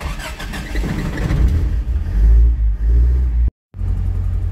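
Toyota 1UZ-FE V8 engine starting up and revving. After a short silence about three and a half seconds in, it idles steadily.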